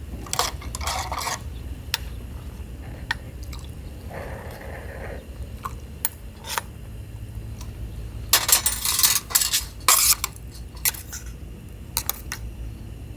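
Cookware and utensils being handled, clinking and knocking in scattered bursts, with a brief rustle in the middle over a steady low background rumble.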